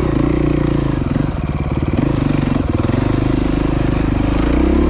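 Dirt bike engine running close up under throttle, its revs holding fairly steady with a few brief dips.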